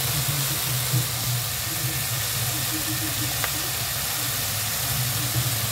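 Tofu, tomato and onion sautéing in a nonstick pan: a steady sizzle over a low steady hum.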